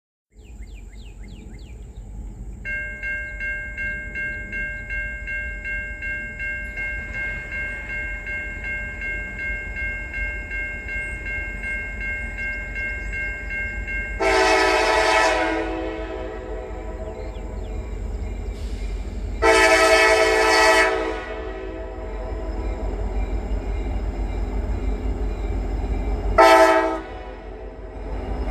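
A passing freight train's locomotive horn sounds two long blasts and then a short one, over the low rumble of the train and wind on the microphone. Before the horn, a steady ringing tone pulses about twice a second.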